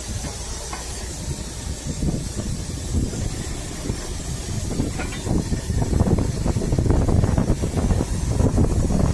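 Heavy truck running, a low rumble with a steady hiss, louder and rougher from about six seconds in.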